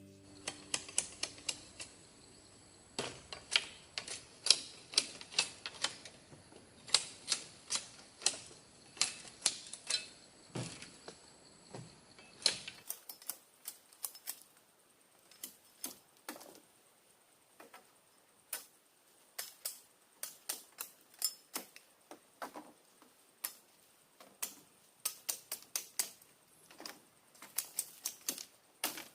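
A run of sharp, irregular clicks and knocks, a few a second, with brief pauses.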